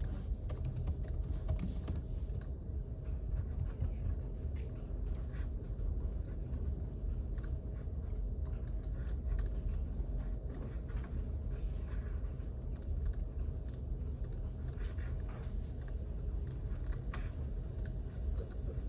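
Typing on a computer keyboard: irregular keystroke clicks, quicker in the first couple of seconds and sparser after, over a steady low background hum.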